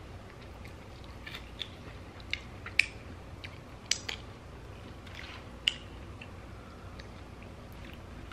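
A person chewing a chicken wing with the mouth close to the microphone: wet mouth clicks every second or so over a quiet background, the loudest about three, four and six seconds in.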